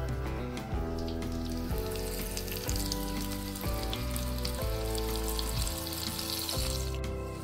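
Batter-coated prawns deep-frying in hot oil, a steady sizzling hiss that cuts off suddenly near the end, over background music.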